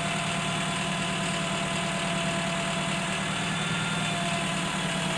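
Crane truck's engine idling steadily, with a faint steady whine above the hum.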